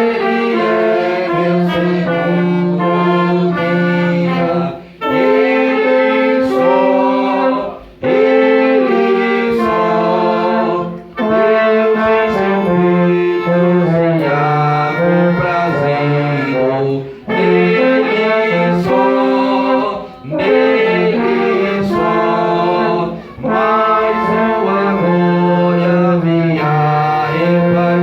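Church wind band of saxophones and brass playing a hymn tune in harmony, in held phrases of about three seconds with short breaks between them.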